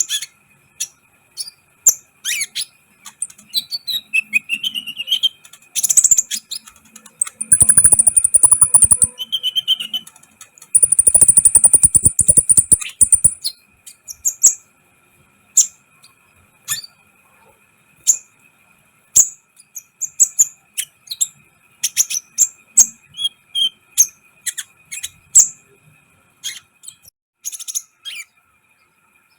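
Kolibri ninja sunbird singing: a run of sharp, high chirps and ticks, broken by two long rapid buzzy trills a few seconds apart. A faint steady whine runs underneath.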